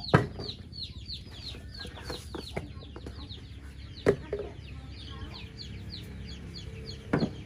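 Birds peeping over and over, short high falling notes several a second, with three sharp knocks: at the start, about four seconds in and near the end.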